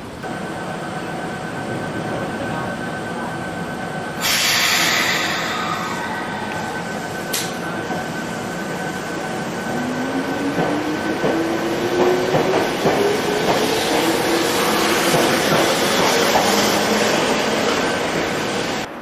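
Ohmi Railway electric train pulling away: a sudden loud rush of air about four seconds in, then the traction motor whine rising steadily in pitch as the train gathers speed, over the running noise of the wheels on the rails.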